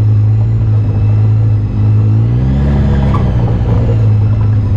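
UTV or ATV engine running steadily under way on a trail, a loud low drone. A little over two seconds in, a second engine note rises and then falls in pitch for about a second.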